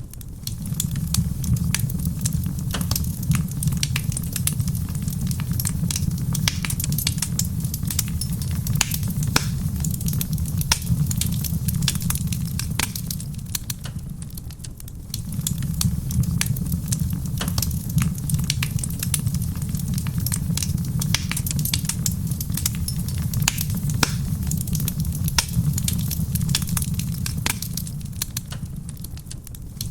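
Wood fire crackling in a stone fireplace: a dense, irregular stream of small pops and snaps over a steady low rumble, dipping briefly about halfway through and again near the end.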